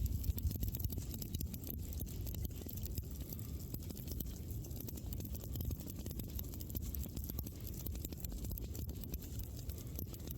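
Wood campfire crackling with many small irregular pops, over a steady low rumble of the burning fire.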